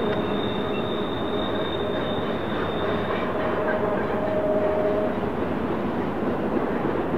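Freight train rolling past on the rails, a steady dense rumble and clatter of the cars, with a thin high wheel squeal that fades out about three seconds in.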